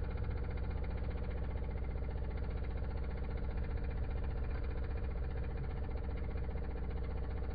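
De'Longhi Stilosa espresso machine's vibratory pump running with a steady, even buzzing hum.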